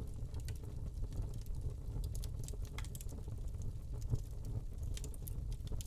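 Wood log fire burning in a fireplace, crackling with irregular sharp pops and snaps over a low steady rumble of flames.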